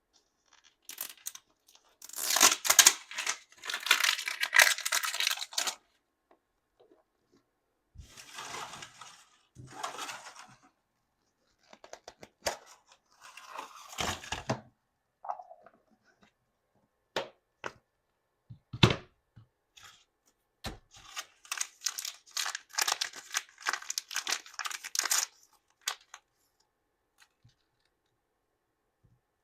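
Small plastic wrappers on Mini Brands miniature toys being torn open and crinkled in several separate bursts, the loudest a couple of seconds in. Scattered sharp clicks and taps of small plastic pieces come between the bursts.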